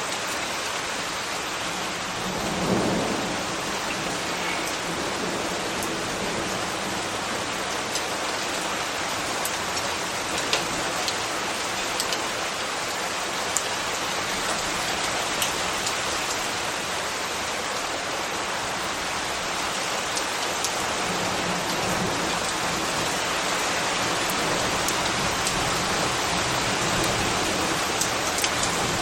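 Steady rain falling, a dense even hiss with occasional sharper drop ticks. There is a brief low swell about three seconds in.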